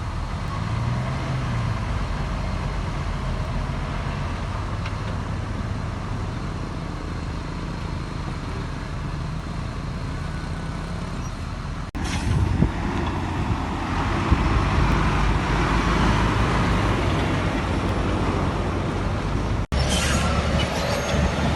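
Heavy diesel machinery engines running steadily. The sound cuts off suddenly about twelve seconds in and again near the end, each time coming back louder and rougher.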